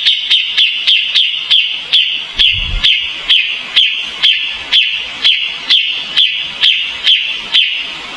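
Kapas tembak songbird calling: one sharp, clicking note repeated in an even rhythm, about two and a half a second, stopping near the end. A brief low thump comes about two and a half seconds in.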